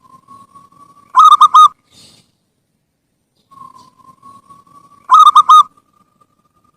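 Zebra dove (perkutut) singing twice, each phrase a soft drawn-out note that leads into a loud run of about four quick coos.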